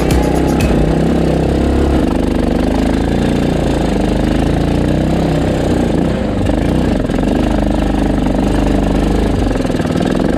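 Small petrol engine running steadily, its speed rising and falling a little.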